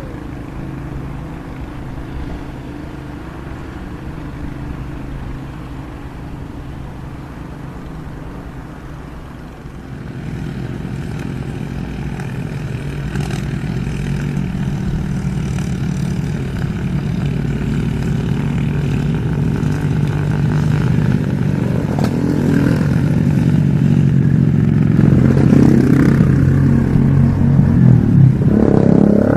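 Komatsu excavator's diesel engine running steadily, growing louder from about ten seconds in, with some clanking near the end.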